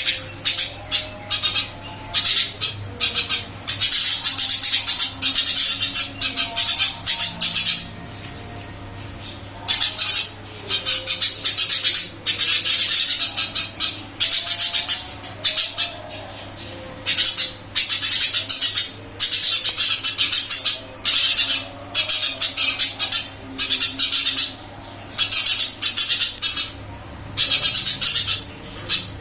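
Caged Eurasian tree sparrow chirping rapidly and incessantly in long runs of quick, high chirps, with brief pauses and a longer pause about eight seconds in, over a steady low hum.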